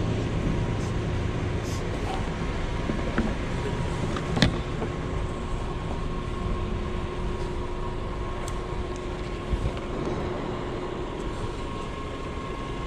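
Steady low rumble of vehicle noise with a faint steady hum over it, and one sharp click about four seconds in.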